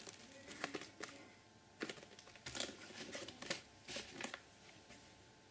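Quiet handling noises: firework cake boxes being moved about, with packaging crinkling and a few light knocks.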